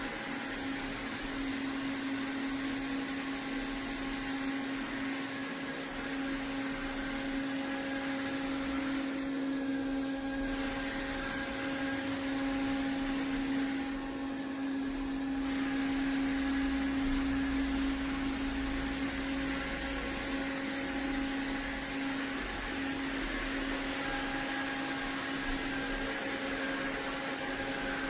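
iRobot Roomba Plus 405 Combo robot vacuum running, a steady motor hum with a held whine, a little louder for a few seconds past the middle.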